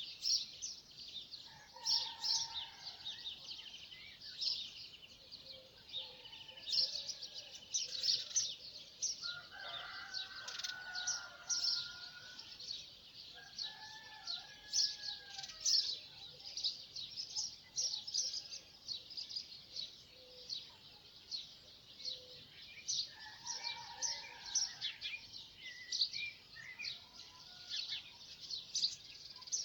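A chorus of songbirds: many rapid high chirps and trills overlapping throughout, with a few lower whistled phrases standing out now and then.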